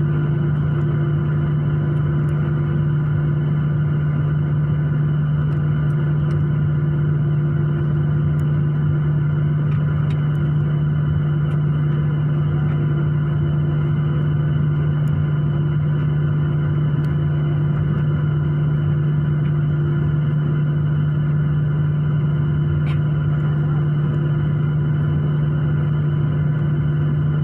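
Jet airliner engines running at steady takeoff power, heard from inside the passenger cabin. They make a loud, even drone with a strong low hum and several fainter steady tones above it.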